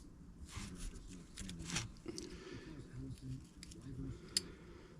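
Small metal carburettor parts being handled: light clicks, taps and a short scrape, with a sharper click about four seconds in.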